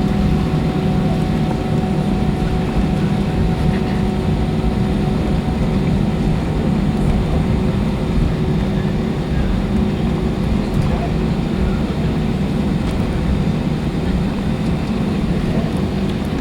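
Airbus A320's IAE V2500 turbofan engines running at a steady setting: a constant low rumble with a few steady whining tones above it, no rise or fall.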